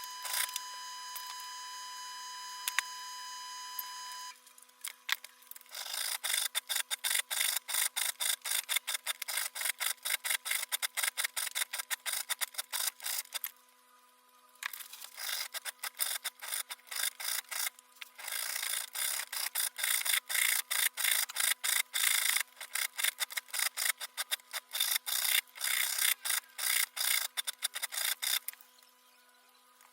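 Quick, short back-and-forth rasping strokes worked by hand, in three runs with brief pauses between them. Before the strokes start, a steady high tone with overtones sounds for about four seconds and then stops.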